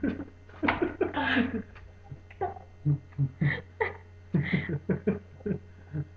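Short, broken bursts of voice, laughter and breathy gasps, over a steady low hum.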